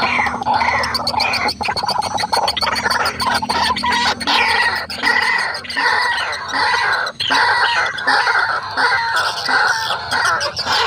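White-breasted waterhen calling, a dense, unbroken run of rapid repeated notes.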